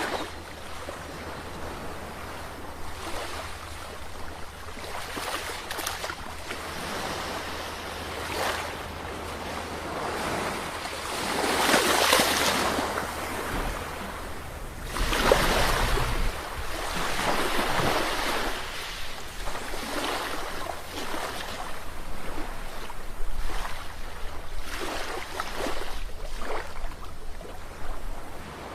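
Ocean surf: waves breaking and washing ashore in a continuous hiss that swells and ebbs, with the biggest surges about 12 and 15 seconds in.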